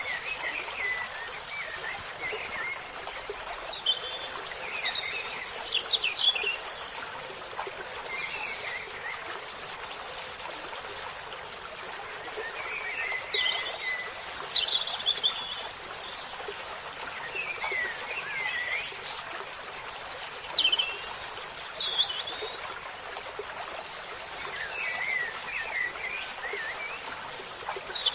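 Songbirds singing in short, quick warbling phrases that come every two to four seconds, over a steady background hiss.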